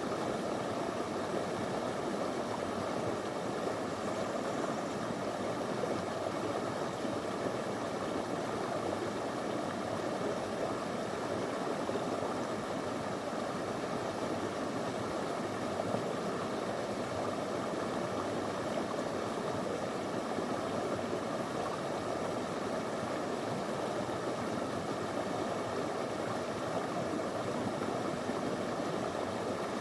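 Small river flowing over stones: a steady rush of water that stays even throughout.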